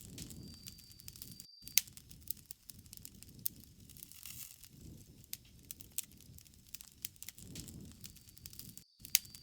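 Bonfire crackling, with frequent sharp pops and snaps of burning wood over soft, low rushes of flame. The sound cuts out for an instant twice, about a second and a half in and near the end.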